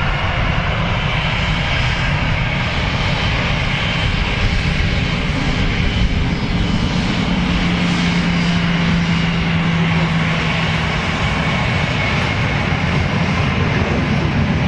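Aircraft engines running loud and steady, with a low drone that holds for a few seconds in the middle.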